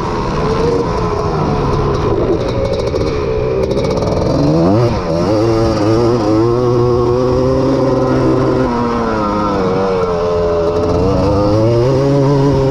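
Honda ATC250R three-wheeler's two-stroke single-cylinder engine under racing load, revving up and down with the throttle. It makes a quick sharp rev about five seconds in, and its pitch falls and climbs again near the end.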